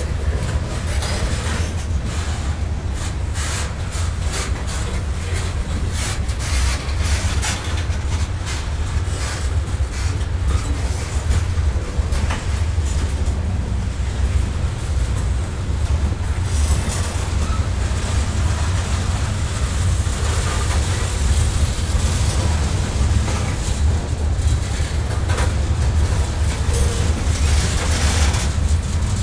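Covered hopper cars of a freight train rolling past: a steady low rumble, with quick runs of clicks from the wheels on the rails, busiest in the first half and again near the end.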